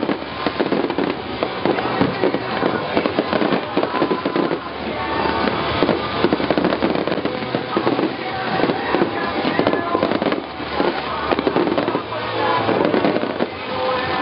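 Aerial fireworks display: a continuous barrage of shell bursts and crackling, with music playing underneath.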